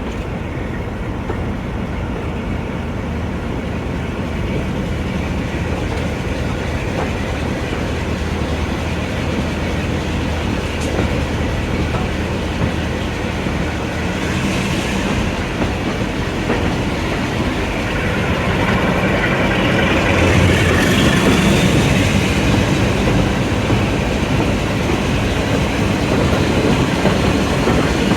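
Train running along the line, its wheels clicking over the rail joints, getting louder over the last third, with a thin rising whine near the end.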